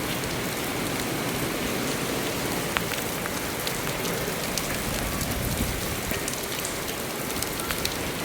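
Steady rain falling, with scattered sharp ticks of individual drops striking a surface.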